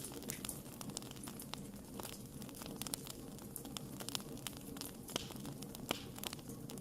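Wood fire burning, with irregular sharp pops and crackles over a low steady hiss of the flames.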